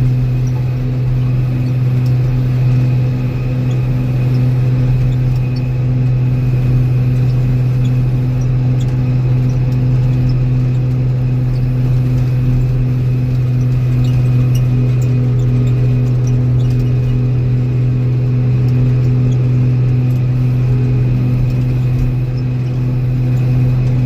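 An old Steiger four-wheel-drive tractor's diesel engine running at a steady speed with a constant low drone. A faint higher whine joins in for a few seconds past the middle.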